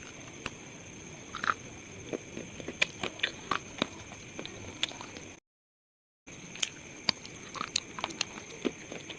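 Slate pieces being crunched, giving sharp, irregular cracks and crackles over a steady background hiss. The sound cuts out completely for about a second, just past the middle.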